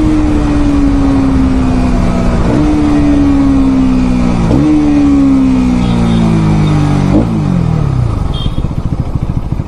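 Bajaj Pulsar NS200 single-cylinder engine slowing under engine braking. Its note sinks steadily and jumps up three times as the rider downshifts, then settles into an even low putter near idle near the end.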